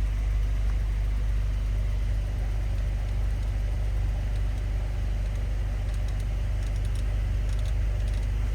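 A car engine idling: a steady low hum, with a few faint ticks near the end.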